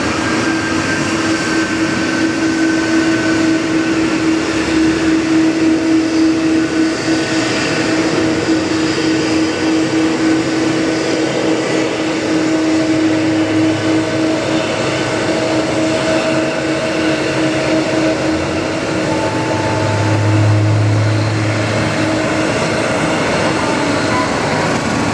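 Boeing 777-200 airliner's jet engines running, a steady hum with a high whine over it; a low rumble swells about twenty seconds in.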